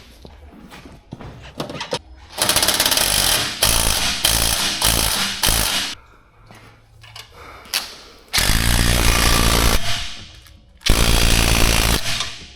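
Impact wrench hammering in bursts as exhaust fasteners are undone: a run of short bursts a few seconds in, then two longer bursts of about one and a half seconds each in the second half.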